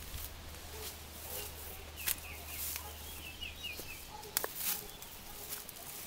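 Small bird giving a quick run of short chirps about two seconds in, over scattered rustling and footsteps in leaf litter. A low steady hum runs under the first part and stops about four seconds in.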